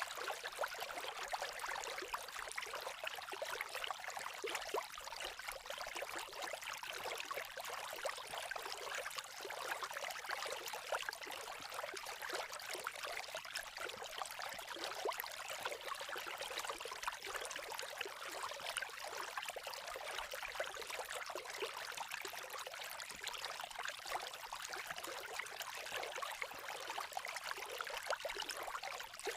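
Campfire crackling: a steady, dense run of small pops and snaps.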